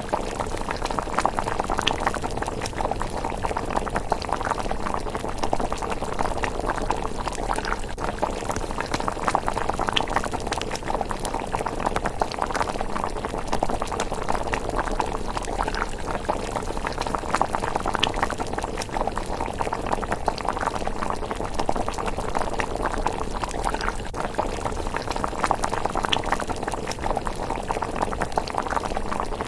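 Pot of miso rice porridge bubbling at a steady simmer, a dense, even patter of small bubbles popping.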